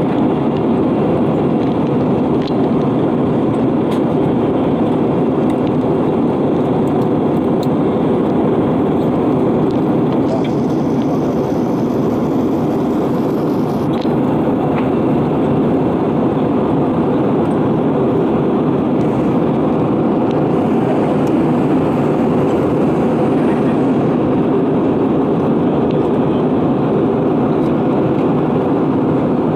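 Steady, loud roar of cabin noise inside an Airbus A320-232 airliner: engine and airflow rumble, with a few faint clicks.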